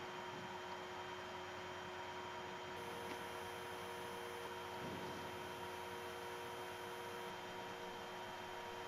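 Steady low hum with a faint hiss and a few steady tones, the background noise of a Dash 8 Q400 flight deck in flight.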